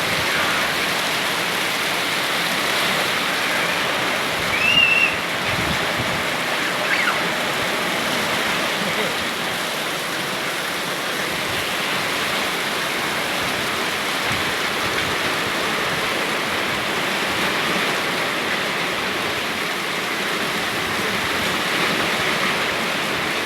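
Heavy rain falling in a steady hiss, with a short high-pitched squeal about five seconds in and another brief high cry around seven seconds.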